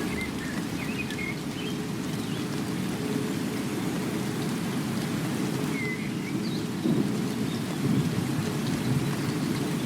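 Steady rain with a low rolling rumble of thunder that swells about seven seconds in. A few short high chirps sound now and then above it.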